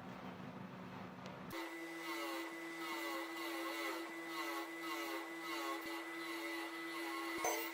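A small electric motor running with a steady hum. About a second and a half in, the sound switches abruptly to a higher steady tone with a wavering pattern repeating about twice a second.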